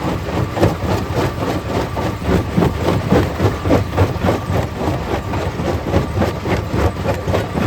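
Stone crusher running under load: a constant clatter of rock knocking and breaking, several knocks a second, over a low, heavy machine drone.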